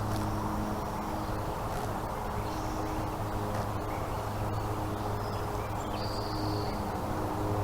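Steady low hum under constant background noise, with two short, high-pitched, flat calls about three and a half seconds apart.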